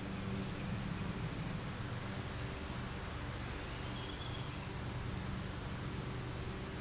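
Steady background noise with a low hum, and a few faint, brief high chirps about two and four seconds in.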